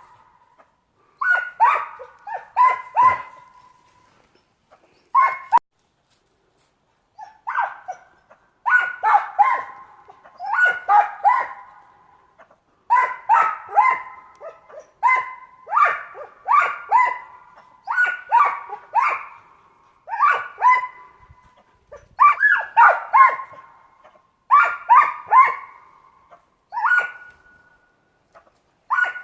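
Yellow-throated marten calling: short, sharp yelping calls in quick clusters of two to four, repeated every second or two, a sound likened to a frog's croak. There is a pause of a few seconds near the start.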